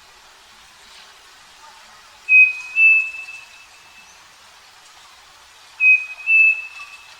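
Striped cuckoo (saci) singing: two clear whistled calls about three and a half seconds apart, each of two notes with the second a little higher.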